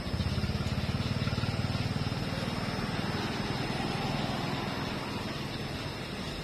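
A small engine running with a fast, steady pulse, easing off slightly toward the end.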